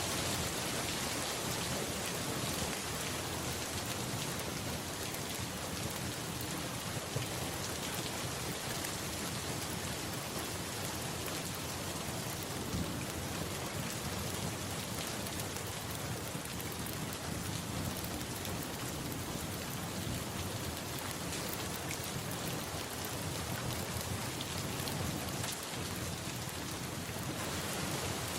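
Steady rain falling, an even hiss with many small scattered drop ticks and a low rumble underneath; a couple of slightly sharper ticks stand out about a third and halfway through.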